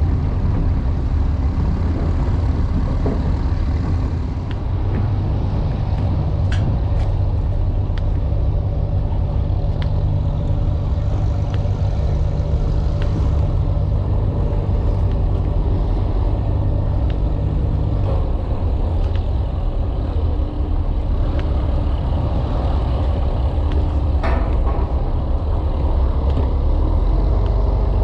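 An engine running steadily with a loud low drone; its note changes slightly about five seconds in and again near eighteen seconds, and a few light clicks sound over it.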